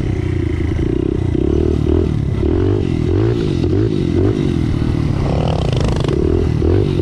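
Small pit bike engine being ridden hard, its revs rising and falling over and over as the throttle is worked.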